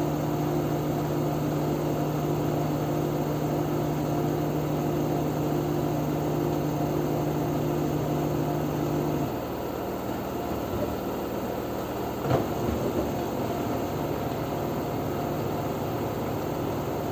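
LG F10B9LD front-loading washing machine on its 1000 rpm spin, the drum motor giving a steady pitched hum. About nine seconds in the hum's tone drops away and the sound eases, and a single short knock comes about three seconds later.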